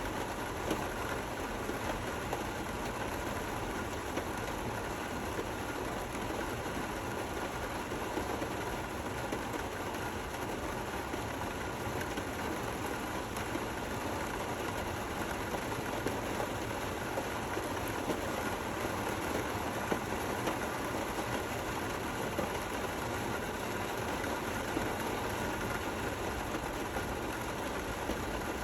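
Steady gentle rain: an even hiss of falling rain with small scattered drop ticks, no thunder.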